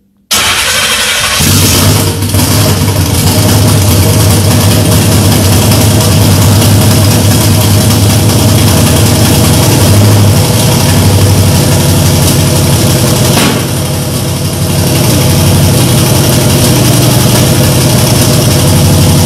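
Twin-turbocharged 427 cubic-inch Dart LSX V8 catching suddenly on its first start and running loud and steady, with a brief drop in level about 13 seconds in. It is running with two coil wires still off.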